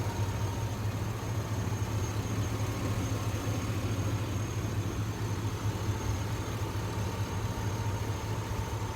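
Chevrolet Silverado 1500 engine idling steadily under the open hood, running smoothly with no knocking.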